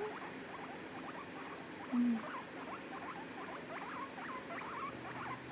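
A hair dryer blows steadily under a dense run of quick, high squeaks and chirps from a small pet, several a second. A short low hum comes about two seconds in.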